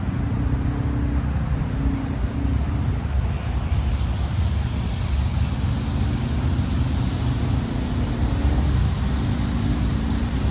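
Street traffic: a steady low engine hum from a motor vehicle running close by.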